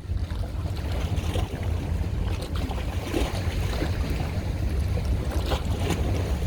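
Steady wind rumble on the microphone over water and boat noise, with a few small knocks.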